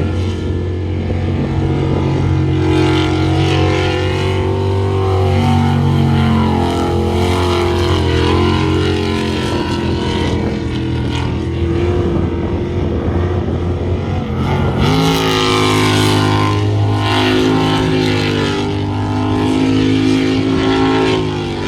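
V8 jet sprint boat engine running hard at high revs. Its pitch holds fairly steady, then rises sharply about two-thirds of the way through.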